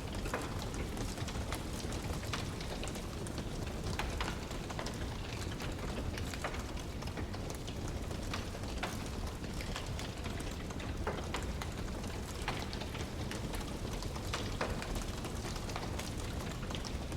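Wood fire crackling in a fireplace: frequent, irregular sharp snaps and pops over a steady low rushing hiss.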